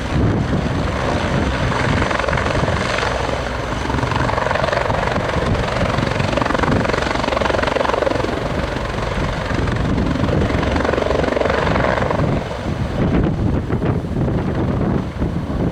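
Helicopter's rotor and turbine engine running, loud and steady.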